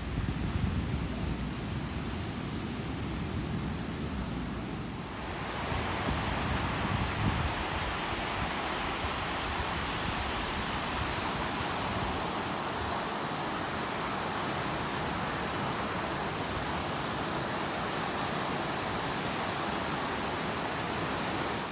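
Ocean waves breaking and washing on a beach. There is wind rumbling on the microphone at first; about five seconds in, it gives way to a steady hiss of surf.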